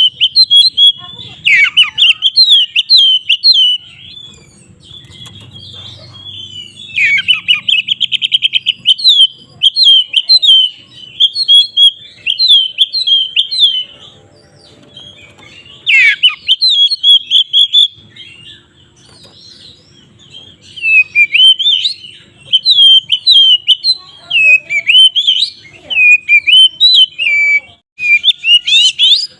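Oriental magpie-robin (kacer) singing in rapid strings of short, sharp whistled notes, with a fast trill and brief pauses between bursts: the bird's aggressive, fighting-style song.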